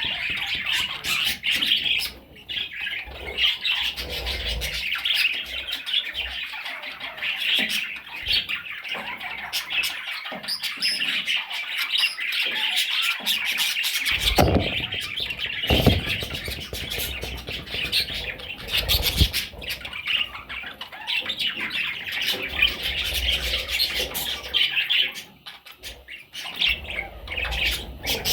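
Parrot chicks calling nonstop, a dense chatter of high squawks and chirps, with a few low thumps about halfway through.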